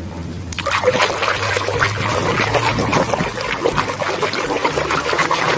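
Water running and splashing over a toy animal as it is washed, starting about half a second in.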